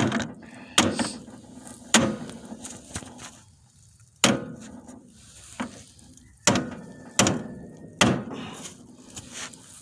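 Hammer blows on steel tractor steering parts: about nine sharp strikes at irregular intervals, each ringing briefly, as the drag link is worked into place.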